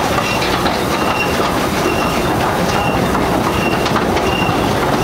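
Open-sided passenger carriage of a narrow-gauge train running along the track: a steady rumble and rattle of wheels and carriage, with a short high squeak repeating about once a second.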